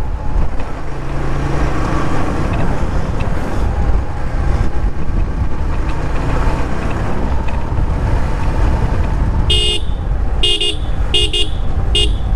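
Steady road-vehicle running noise with wind rumble. Near the end a horn sounds in four short honks, the third one doubled.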